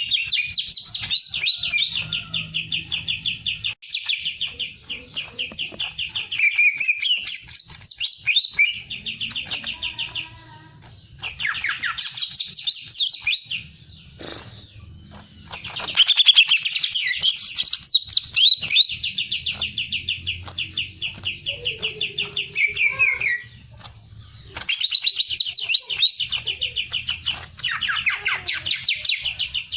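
A songbird singing energetically in long, fast trills of rapidly repeated high notes, with a few short pauses between bursts.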